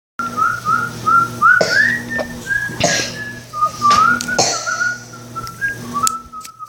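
A person whistling a tune of short notes and small pitch glides, over a steady low hum. Three brief noisy rustles cut in about one and a half, three and four and a half seconds in.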